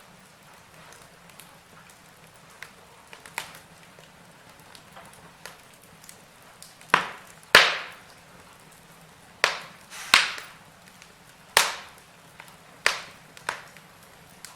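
Wood fire crackling in a fireplace: a faint steady hiss with small scattered ticks, then about seven loud, sharp pops from about seven seconds in.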